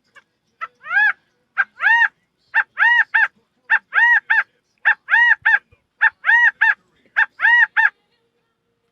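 A series of bird-like honking calls, given in about eight quick groups roughly a second apart; each group is a short note followed by one or two longer notes that rise and fall in pitch.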